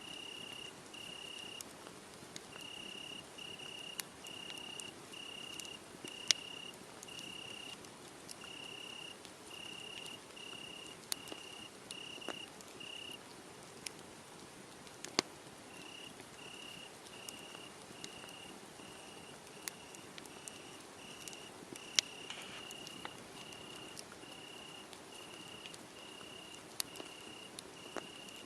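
Crickets chirping steadily, a short high chirp about one and a half times a second with a brief pause around the middle, over the soft hiss of a wood fire that gives scattered sharp crackles and pops.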